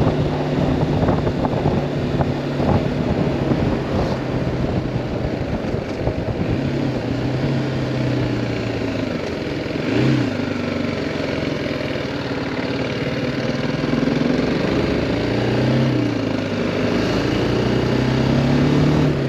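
BMW G310R's single-cylinder engine running under a rider in traffic, its pitch rising and falling as it is throttled on and off, with a short rev blip about halfway and a climb in revs near the end. Wind rushes over the helmet or bike camera microphone.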